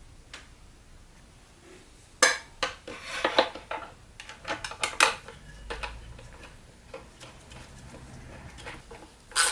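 Small metal parts clinking and clattering as they are handled, in quick irregular clusters that start about two seconds in, with another burst near the end.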